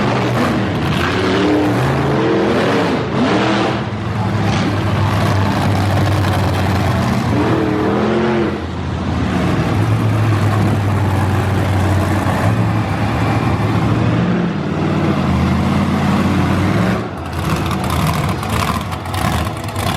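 Monster truck engine running hard, its pitch swinging up and down as it revs repeatedly, easing off about 17 seconds in.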